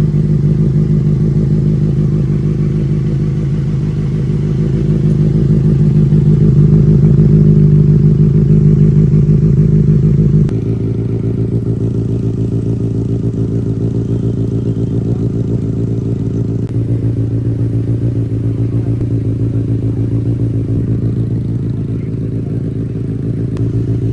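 Benelli 600i's inline-four motorcycle engine running steadily with a fast, even firing pulse, swelling louder for a few seconds before the sound changes abruptly about ten seconds in.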